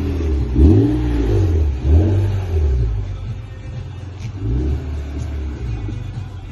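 A car engine revved in about three quick blips, the pitch rising and falling back each time, running at a steady idle between them.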